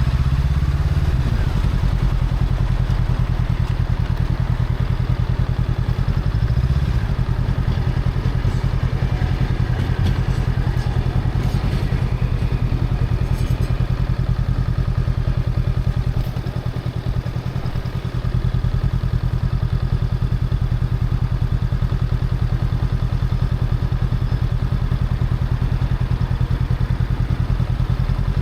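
Honda Rebel 500's parallel-twin engine running through its stock exhaust at steady cruising speed. It revs briefly about a second in and again near seven seconds, and the engine drops back for a couple of seconds near the middle.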